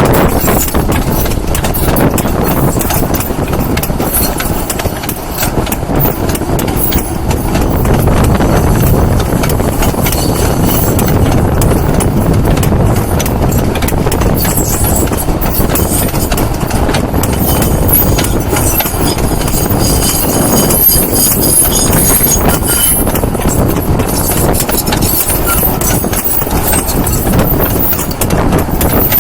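Long rake of sugar cane bins on a narrow-gauge cane railway rolling past, the wagon wheels clattering steadily over the rail joints with a low rumble underneath.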